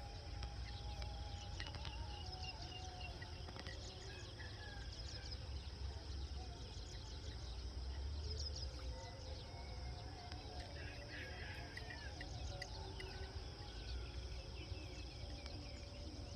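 Rural outdoor ambience: a steady high insect drone with scattered short bird chirps, over a low rumble.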